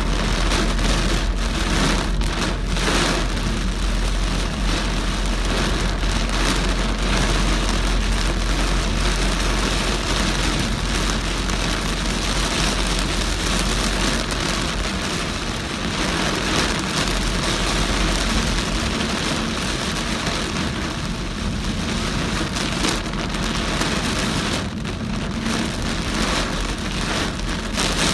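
Heavy rain pouring steadily on a moving car, under a constant low rumble of the engine and tyres on the wet road.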